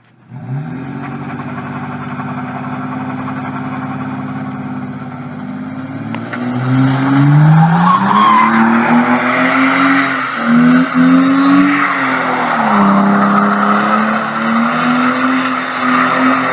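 Car engine running at steady revs, then revving hard about six seconds in, its pitch rising and falling with the throttle. At the same time the tyres start a loud, sustained squeal as the car drifts.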